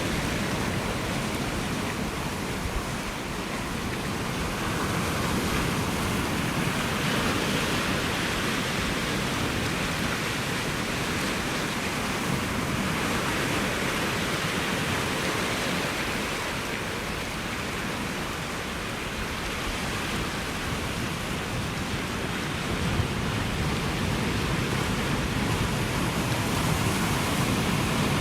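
Ocean surf washing ashore in a steady rush, swelling and easing slowly every several seconds.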